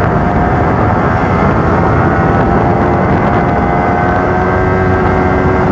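Motorcycle engine and exhaust running loudly at steady revs while riding.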